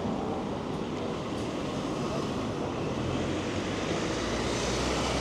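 Street traffic noise with wind on the microphone, a low rumble that swells in the last two seconds as a vehicle passes close.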